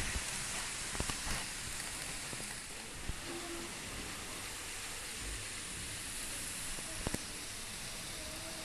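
N-gauge model train running on the layout: a steady rushing hiss of wheels and motor, with a few faint clicks about a second in, around three seconds and near seven seconds.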